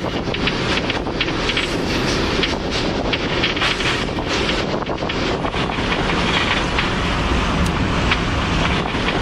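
Freight train riding noise heard from aboard a moving car: a steady rumble of wheels on rail with scattered clanks and knocks.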